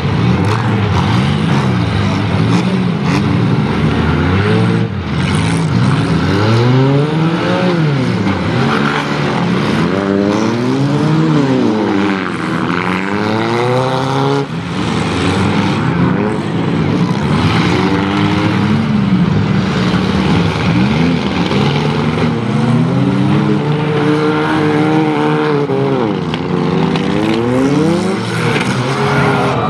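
Several demolition derby cars' engines revving hard, their pitches rising and falling over one another as the cars drive and ram into each other.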